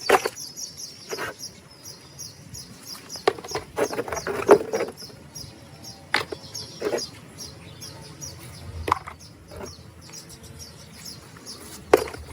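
Birds chirping steadily in the background, with scattered sharp knocks and clicks throughout.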